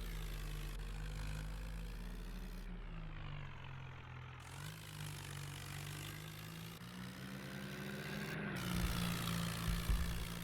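Swaraj 744 tractor's diesel engine running, its pitch wavering and rising around three-quarters of the way through as it is revved, with a couple of sharp thumps near the end.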